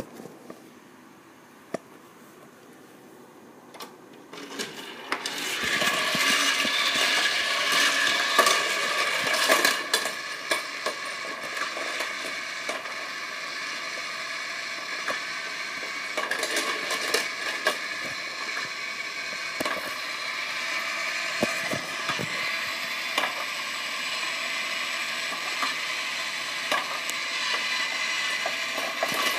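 Die-cast Tomica toy cars clattering along a plastic playset's track, over a steady whir, starting about five seconds in and keeping up a continuous rattle of small clicks.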